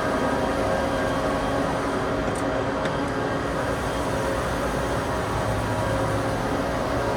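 Steady hum and whir of industrial machinery running, with several held tones over a noisy low rumble and a couple of faint ticks about two and a half to three seconds in.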